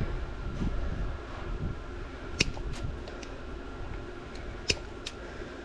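A few short, sharp clicks, two of them louder, over a low rumble of handling noise at the start.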